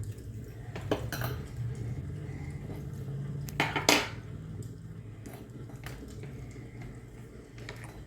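Cutlery clinking against dishes during a meal: a few sharp clinks, the loudest a quick cluster about four seconds in, over a low steady hum.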